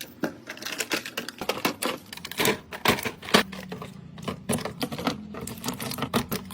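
Rapid, irregular clicking and tapping of plastic storage containers and lids being handled and set down.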